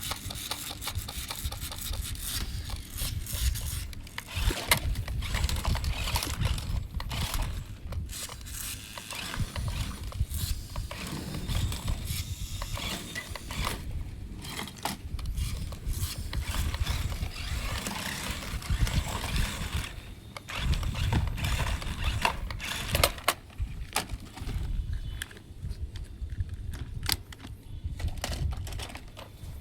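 A small toy RC car's mechanism running, a low rumble with many irregular clicks and rattles from its plastic gears and parts.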